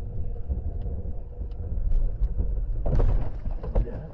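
Steady low rumble of a car driving, with engine and road noise, and a short, sharper noise about three seconds in.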